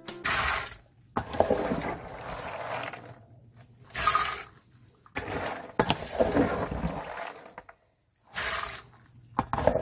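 Water being poured and sloshed, in about five separate bursts of one to two seconds with short gaps between them.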